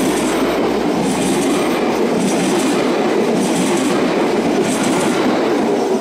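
Bombardier AGC regional train passing close at speed: a steady loud rush of wheels on rail, with three brief bursts of clatter over it. The noise falls away at the end as the last car clears.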